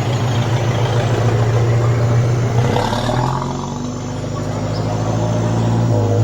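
A motor vehicle's engine running steadily with a loud low hum, its pitch shifting slightly about three seconds in.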